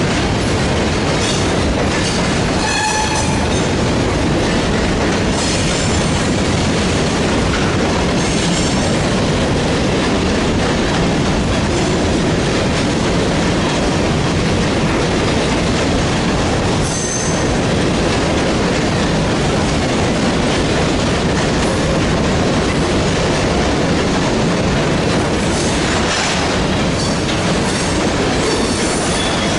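Freight train rolling by close, a loud, steady rumble of wheels on rail, with brief high wheel squeals several times.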